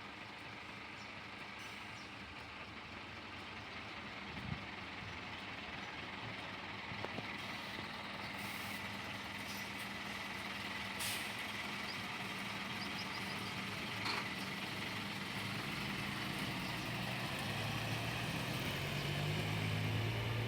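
Scania Irizar coach's diesel engine running, with a brief hiss of air from the brakes about halfway through and a few clicks. The engine grows steadily louder, its low note strongest near the end as the coach moves off.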